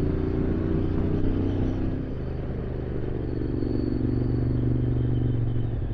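Motorcycle engine running steadily while riding under way, with an even rush of road and wind noise; the engine note dips slightly about two seconds in.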